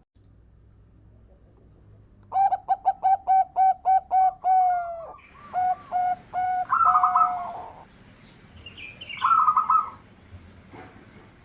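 Zebra dove (perkutut) cooing. After about two seconds of quiet comes a quick run of short, even coo notes. Further coos follow, overlapped by a higher, rattling trill, and another higher trill comes near the end.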